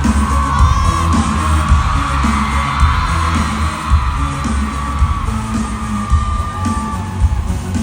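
Live pop band music with a heavy, steady bass beat, over which an audience screams and whoops in high wavering cries.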